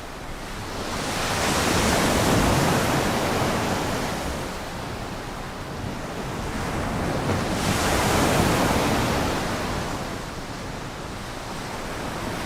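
Sea waves washing in, rising and falling in two slow surges of rushing noise about six seconds apart.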